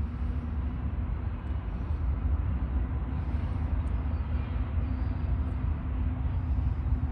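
Steady low rumble of a Union Pacific freight train's diesel locomotives working over the summit, with a faint steady hum running under it.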